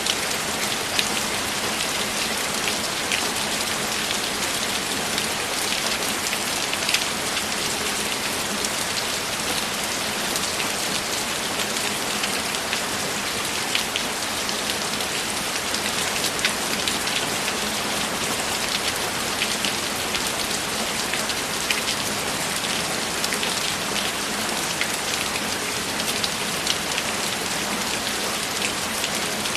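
Steady, even rainfall, with scattered sharper drop taps standing out now and then.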